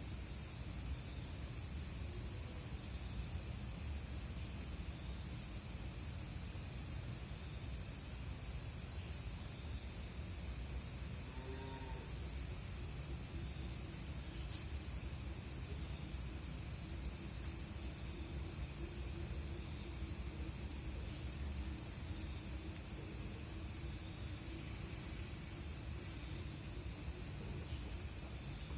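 Night insects: a steady high trill from crickets or similar insects, with groups of quick chirps from another insect starting and stopping every second or two. A faint short pitched call sounds about twelve seconds in.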